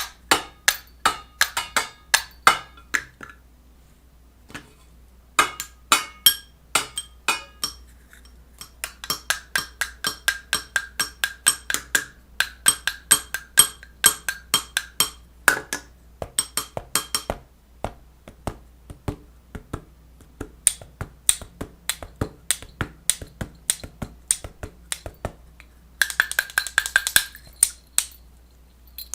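Runs of sharp taps or clicks, several a second, broken by short pauses; some runs carry a brief ringing tone.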